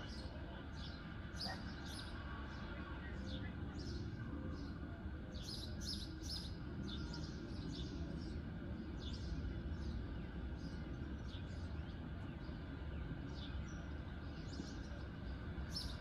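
Birds chirping: many short, high chirps at irregular intervals, several a second at times, over a steady low rumble.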